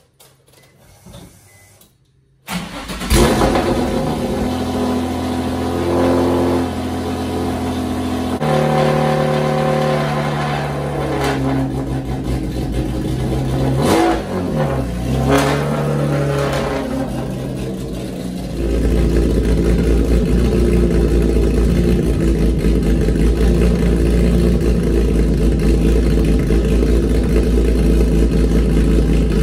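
Nissan 350Z's cammed 3.5-litre V6 starting, then idling with a choppy, lumpy idle from its aftermarket camshafts. About halfway through it takes two short blips of the throttle, and from about two-thirds of the way through the idle is louder and deeper.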